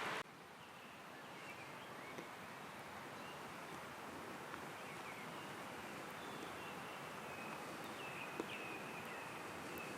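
Quiet forest ambience with faint, thin bird calls and a few small ticks. A louder rushing hiss cuts off just after the start.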